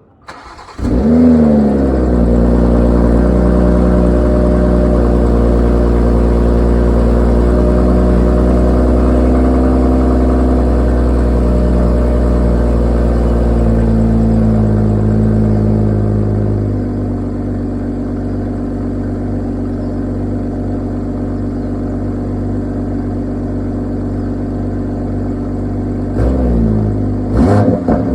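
BMW B58 3.0-litre turbocharged inline-six cold-starting. The starter cranks briefly and the engine catches with a rev flare, then holds a fast cold idle. A little past halfway it steps down to a lower, steadier idle, and near the end it is blipped in a few quick revs.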